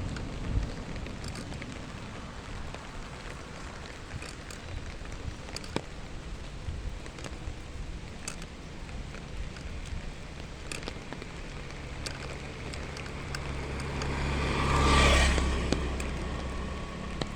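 A road vehicle passing close by: its engine hum and tyre noise build, peak about fifteen seconds in, then fade. Scattered light clicks sound over a steady background hiss.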